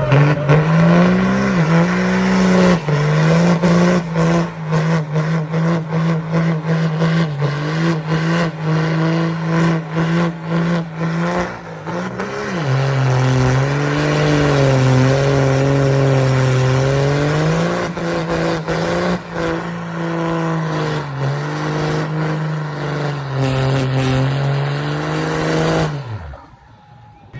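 Diesel truck engine held at high revs for about 26 seconds, with sharp crackles through it. Its pitch dips lower for several seconds midway and climbs back, then the engine cuts off abruptly near the end.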